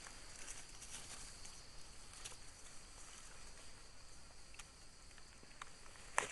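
Quiet forest ambience: a faint steady high-pitched insect drone, with a few soft rustles and snaps of dry leaf litter underfoot.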